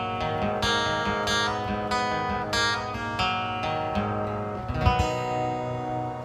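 Acoustic guitar strumming the closing chords of the song, then a final chord left to ring out from about five seconds in.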